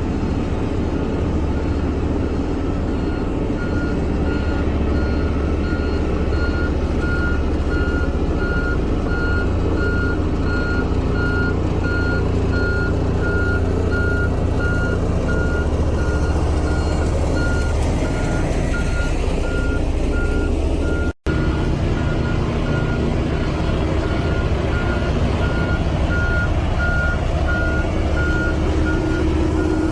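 Heavy construction machine's engine running steadily under load, with its reversing alarm beeping at an even, rapid rate, starting a few seconds in: the machine is backing up.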